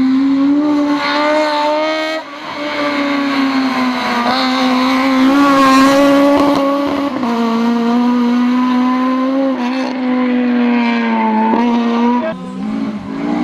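Rally car engine running hard at high revs, its pitch holding steady for several seconds at a time and dipping briefly about two, seven and twelve seconds in.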